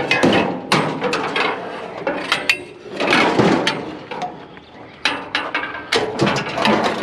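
Metal scrap being wrestled into place on a trailer load: repeated clanks, knocks and scraping as pieces are shifted and fitted over other metal items.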